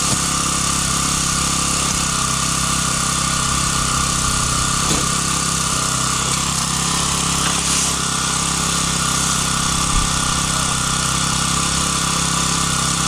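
An engine running steadily at one constant speed, with a steady hum and a higher whine over it.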